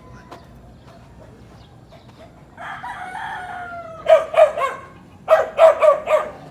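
A rooster crows once in a long drawn-out call, then dogs bark in quick runs of three or four barks.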